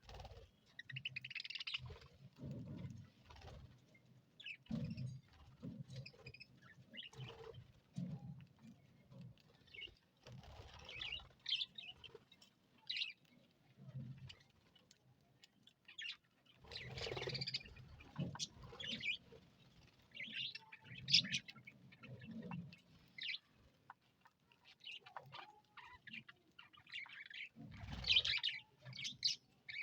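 A colony of budgerigars chirping and chattering in short, irregular calls, mixed with scattered soft low thuds.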